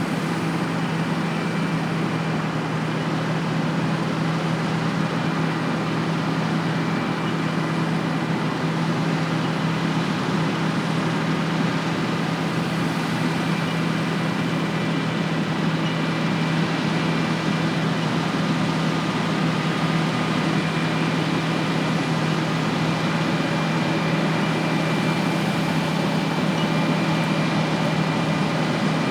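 Heavy farm machine's diesel engine running steadily at constant speed: a low, even drone with a faint steady whine above it.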